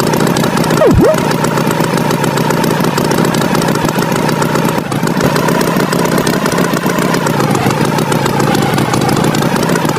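Tractor engine sound effect running steadily. About a second in, a brief swooping whistle drops and rises.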